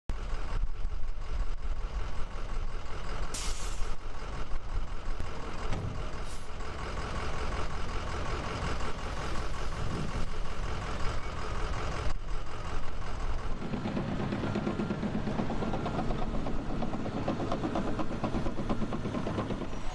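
Heavy diesel trucks and machinery running steadily, with a short hiss of air about three seconds in and a heavier low rumble in the last third.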